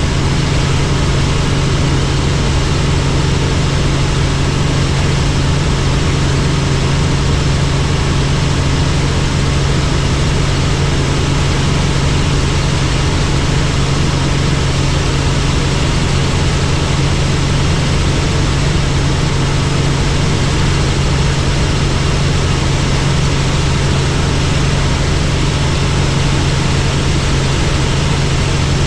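Helicopter in flight: a constant low hum from the engine and rotor with a steady hiss above it, unchanging throughout.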